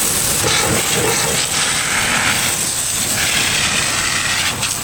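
Water jet hissing as it sprays onto the tractor and baler, in two long bursts, the first about a second and a half in and the second from about three seconds in. A low, steady rumble runs underneath.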